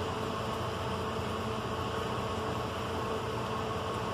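Motorcycle engine idling steadily with an even, unchanging hum, carbureted and, by the owners' reckoning, running rich with its carburetors out of tune.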